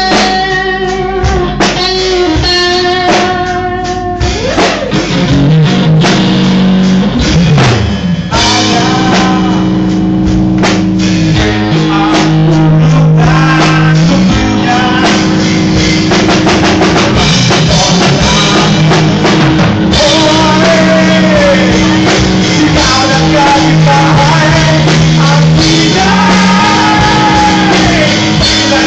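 Rock band playing live: electric guitar over drum kit and bass, with singing. A guitar line leads at first, and the full band comes in about eight seconds in.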